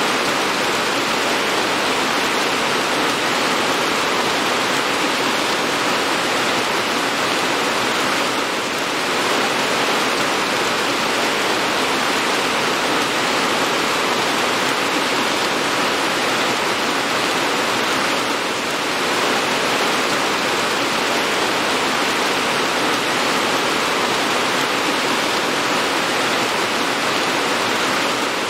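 Steady heavy rain, a dense even hiss, with a brief slight dip in level about every ten seconds.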